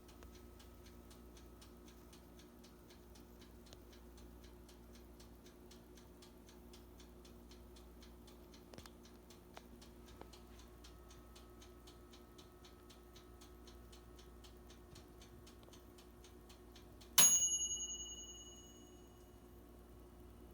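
Faint, regular ticking, about three to four ticks a second, then a single bright metallic ding about seventeen seconds in that rings out over a second or two.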